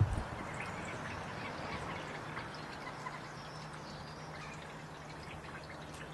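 Light water trickling and dripping, with scattered small ticks and a low thump at the start. A faint steady hum comes in about two seconds in.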